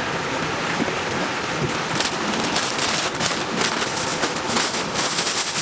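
Chicken deep-frying in hot oil: a steady sizzle with constant fine crackling.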